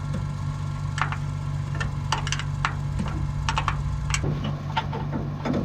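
International 686 tractor engine idling steadily, with scattered sharp metallic clicks and taps from wrench work on the corn picker's chains.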